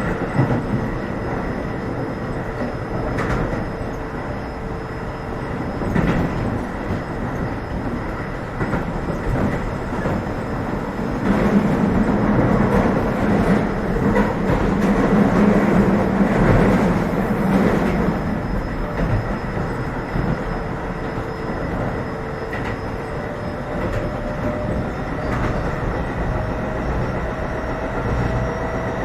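Keio 7000 series electric train running, heard from inside the passenger car: a steady rolling noise of wheels on rail with clickety-clack, growing louder for several seconds in the middle. A faint steady whine rises in pitch near the end.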